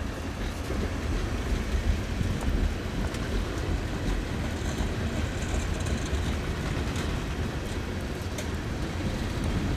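Freight train's cars, mostly empty tank cars, rolling past with a steady low rumble of wheels on rail and a few faint clicks.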